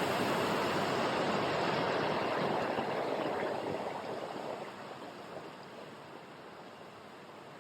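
Steady rushing of running water that fades down from about three to five seconds in and then holds at a lower level.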